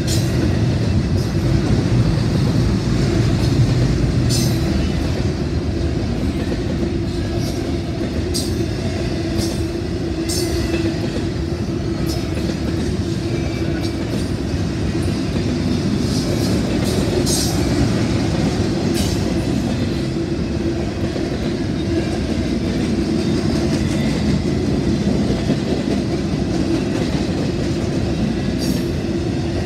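A train's cars rolling past at close range: a steady rumble of steel wheels on rail with a constant low hum, and scattered sharp clicks and brief squeals from the wheels.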